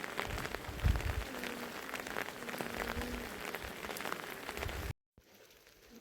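Heavy rain falling, a dense spray of drop impacts. It cuts out abruptly near the end and comes back much quieter.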